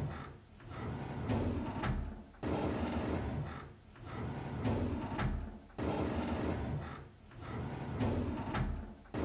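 A drawer sliding open on its runners, repeated several times in a row, each pull a rumbling slide of a second or two, some starting abruptly.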